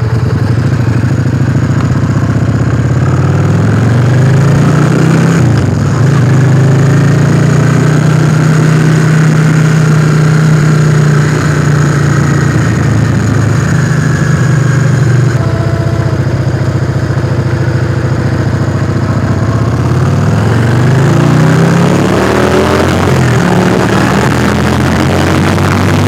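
Yamaha XV400 Virago's V-twin engine running under way. It revs up in the first few seconds, holds a steady pitch, then revs up again in steps near the end as the bike accelerates.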